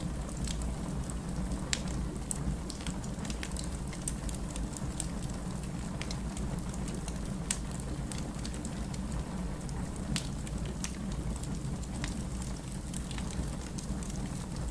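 Burning firewood crackling, with irregular sharp pops over a steady low rushing of the flames.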